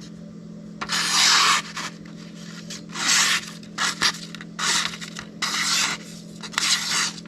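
Cold Steel Mayhem knife blade stroked across a wet Shapton Kuromaku whetstone while polishing the edge, about six scraping passes of half a second to a second each, with a steady low hum underneath.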